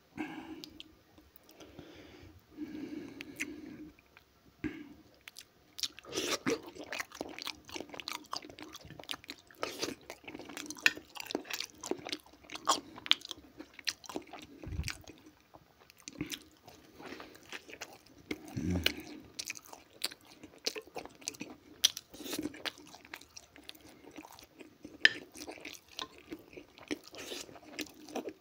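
Close-up chewing of a mouthful of fried potatoes and grilled shashlik meat: steady wet, smacking mouth sounds with small crunches and bites, denser and louder from about six seconds in.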